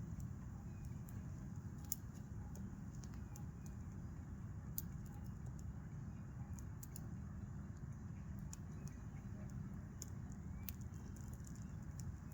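Gas stove burner running steadily under a covered pot of pasta water at the boil, with scattered faint clicks and ticks.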